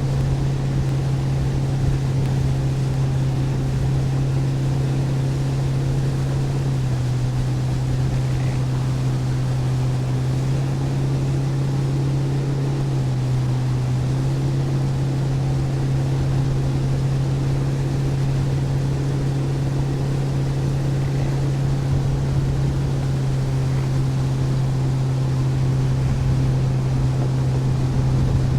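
Boat motor running steadily while cruising, a low even drone that drops slightly in pitch about seven seconds in and again around fourteen seconds, over wind and water noise.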